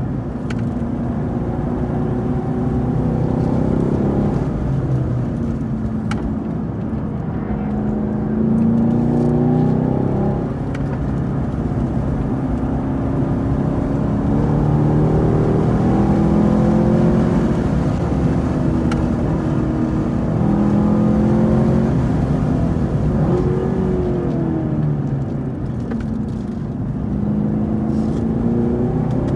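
A Camaro SS 1LE's 6.2-litre V8 under hard track driving, its pitch climbing under acceleration and dropping again at shifts and braking, several times over.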